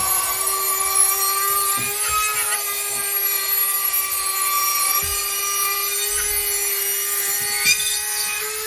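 Handheld power tool cutting drywall: a steady motor whine with a gritty hiss of the blade in the gypsum board, its pitch sagging slightly now and then under load.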